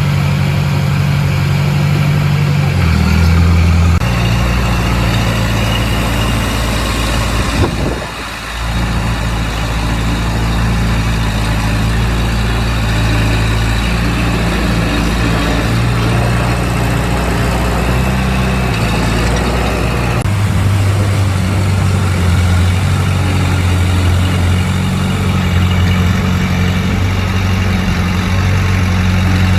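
Heavy diesel construction machine running steadily, its engine note shifting a few times, with a brief dip about eight seconds in.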